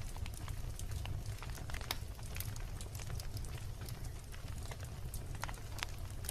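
Wood fire crackling: irregular sharp pops and snaps from burning logs over a steady low rumble of the flames.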